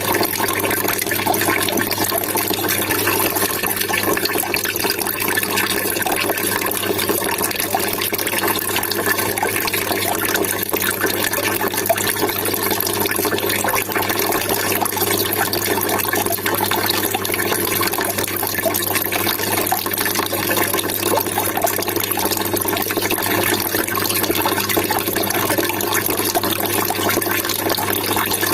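Trickling, splashing water, steady and unbroken.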